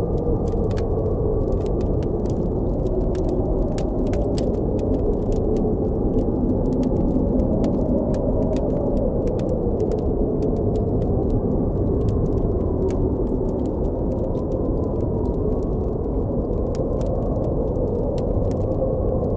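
Blizzard wind blowing steadily, with a low rush and a faint wavering howl, while a campfire crackles with many small sharp pops throughout.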